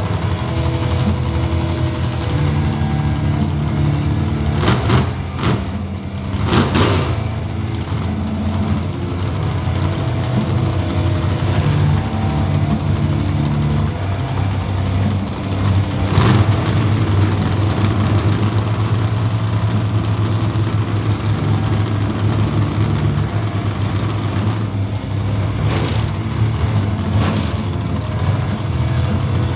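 Big monster truck engines idling with a steady low rumble whose pitch shifts a few times. Several short sharp bursts come about 5, 7 and 16 seconds in.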